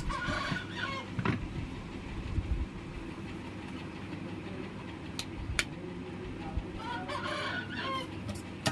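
Bird calls in two short bouts, one at the start and one about seven seconds in, over a steady low background hum, with a couple of sharp clicks in between.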